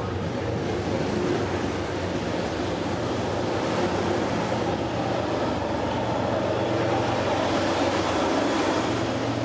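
Diesel-hauled train running past with a steady, loud drone of engine and rail noise.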